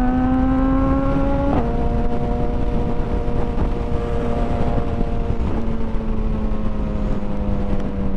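Motorcycle engine pulling hard with rising pitch, then a gear change about a second and a half in drops the pitch. After that the engine runs on with slowly falling pitch, over steady wind rush.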